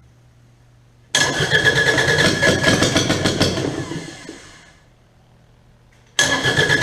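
Kubota D722 three-cylinder diesel cranked over and catching about a second in, running for a few seconds, then dying away. It is cranked again just before the end and starts straight back up.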